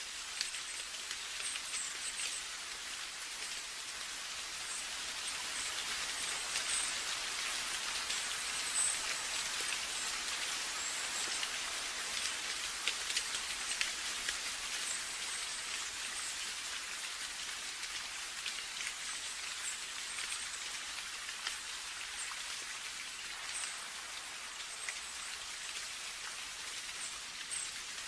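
Steady rain: a constant hiss with many individual drops ticking close by, slightly louder through the middle.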